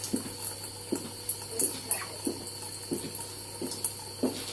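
Kitchen tap running into the sink: a steady hiss of water with irregular splashes about twice a second.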